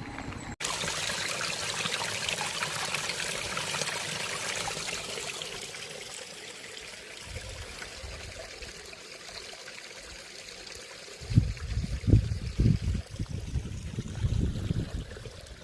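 A small stream trickling and rushing steadily, slowly fading. From about two-thirds of the way through, irregular low thumps and rumbles come in over it.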